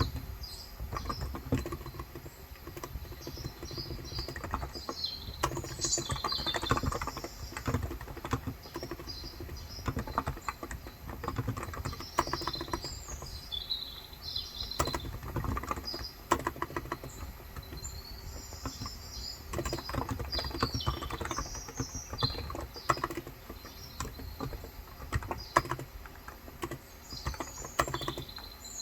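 Continuous typing on a COX Endeavor capacitive (electrostatic, 35 g) tenkeyless keyboard: a quick, irregular run of soft keystrokes. Birds chirp in the background.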